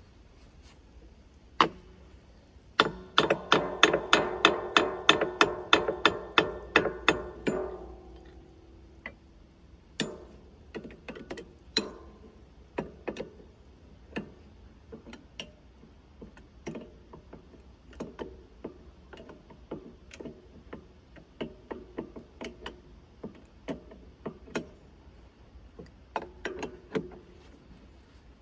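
Wrench work on the sawmill's circular saw blade nut: a quick run of ringing metallic strikes, about three or four a second for several seconds, then lighter scattered metal clicks and taps.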